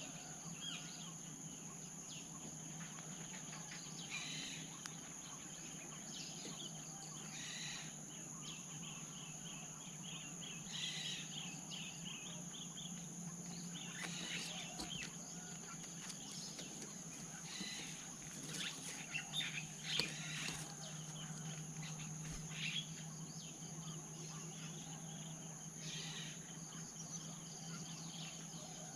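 Forest ambience: a steady high-pitched insect drone under a low steady hum, with scattered short bird chirps every few seconds.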